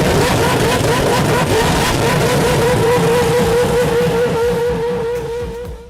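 Four-rotor Mazda rotary engine in an RX-7 running hard, a loud engine note whose pitch wavers up and down at first and then holds steady, easing off slightly near the end.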